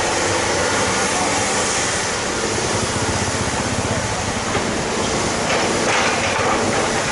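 Hydraulic excavator's diesel engine running steadily, with a rapid low pulsing from its firing.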